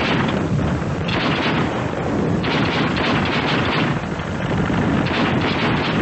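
Battle noise: dense gunfire and explosions running on without a break, swelling and easing every second or so.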